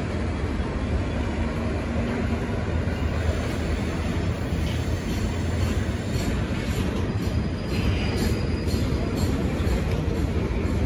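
V/Line N class diesel locomotive and its carriages moving out of the station: a steady low rumble and rolling noise, with faint clicking and a thin high wheel squeal in the second half. The horn is not sounding.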